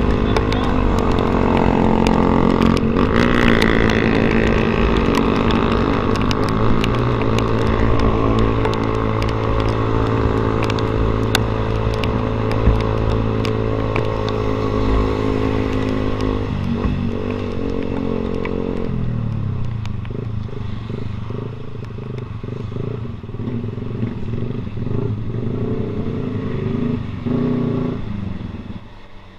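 Yamaha Vixion's single-cylinder four-stroke engine running through an SC Project aftermarket exhaust, held at steady revs while riding. About seventeen seconds in the pitch drops and the engine settles at lower revs, getting quieter near the end.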